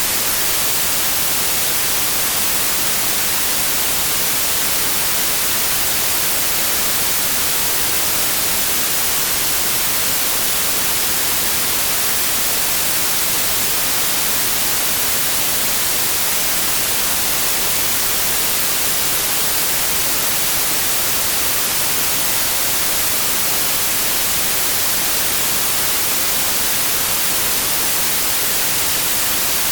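Steady, unchanging synthetic white noise: an even hiss that is bright and treble-heavy, with no tones, rhythm or events.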